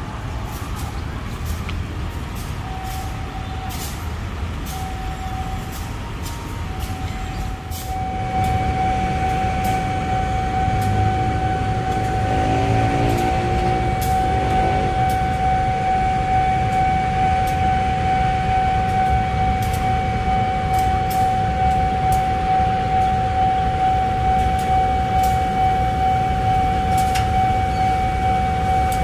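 A railway train at a station: a low mechanical rumble with scattered clicks, joined about eight seconds in by a steady high-pitched whine that holds on and makes the sound louder.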